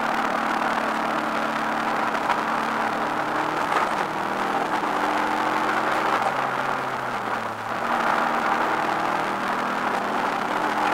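Subaru Impreza WRX's turbocharged flat-four engine heard from inside the cabin, running hard at racing speed. The engine note dips briefly about seven and a half seconds in, then pulls again.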